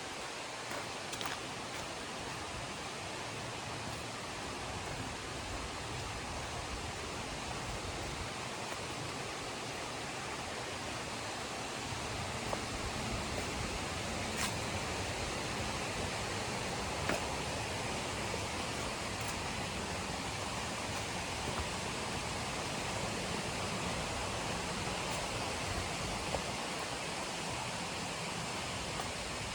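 River water rushing steadily, growing a little louder about twelve seconds in, with a few faint ticks.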